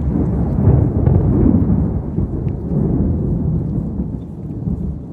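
Thunder rumbling low, rolling in uneven swells.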